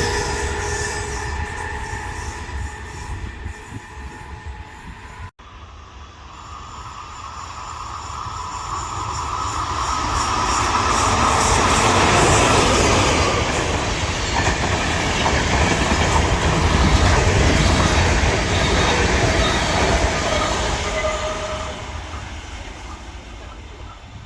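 A train fades out over the first few seconds. After an abrupt cut, another train approaches, passes loudly with rolling wheel and rail noise, and fades away again.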